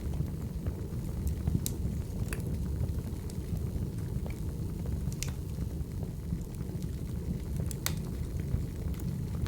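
Wood fire burning: a steady low rumble of flames with a handful of sharp crackling pops scattered through.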